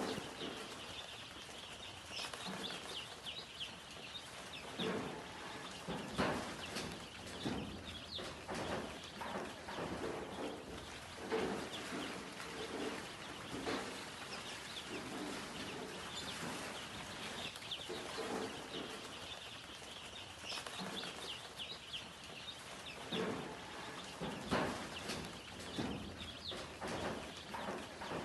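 A group of young chicks peeping continuously, many short high chirps overlapping, with scattered clicks and lower clucking calls mixed in.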